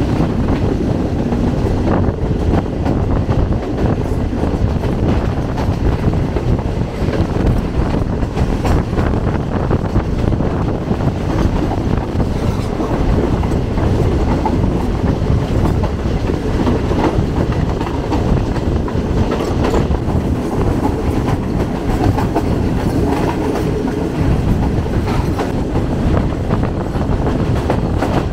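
Green Line Express passenger train running at speed, a steady rumble with the wheels clicking over the rail joints.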